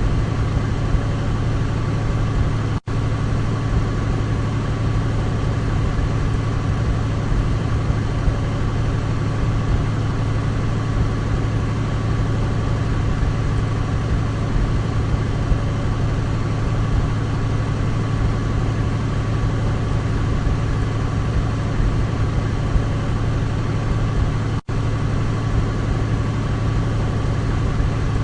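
Douglas DC-3's twin radial piston engines droning steadily, with a strong low hum and a thin steady tone above it. The sound cuts out for a split second twice, once near the start and once near the end.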